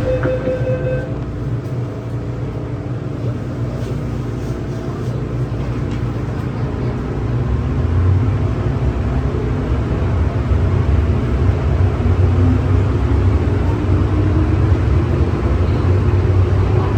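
MTR M-Train metro train heard on board, running with a low rumble. A steady tone cuts off about a second in. The rumble grows louder from about eight seconds in, and a rising motor whine near the end marks the train gathering speed.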